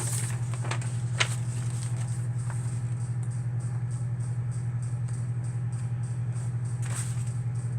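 A steady low hum, with a few light clicks from handling small items and paperwork about a second in and again near the end.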